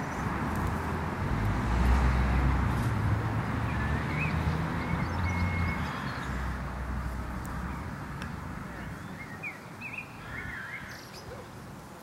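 Small birds chirping briefly a few times over a low outdoor rumble. The rumble swells about two seconds in and fades toward the end.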